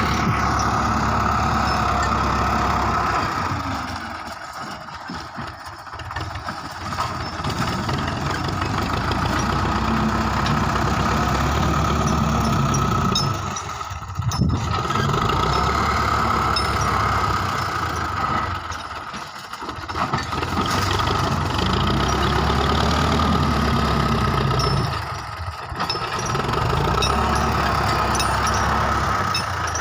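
Belarus 510 tractor's diesel engine running steadily. Its sound drops away briefly four times before coming back up.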